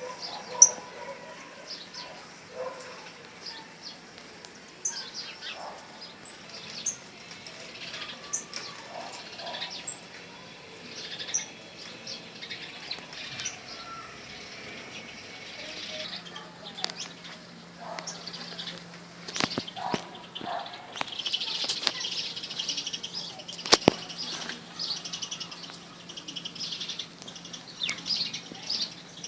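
Small birds chirping and twittering in many short calls, busiest about two-thirds of the way through, with a few sharp clicks and a steady low hum underneath.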